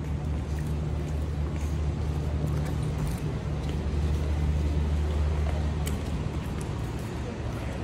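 A motor vehicle's engine running on a wet street: a steady low hum that swells about halfway through and eases off near the end.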